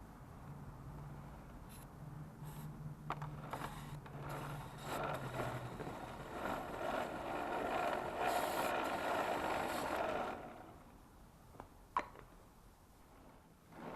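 Aerosol contact cleaner spraying onto a dirt bike's chain in a long hissing run of short sprays, with a low steady hum under the first half and a single sharp click near the end.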